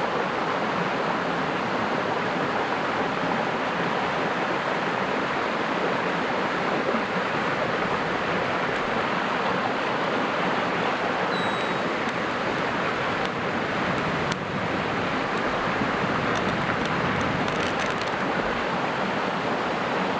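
Mountain creek rushing steadily close by, with a few faint ticks near the end.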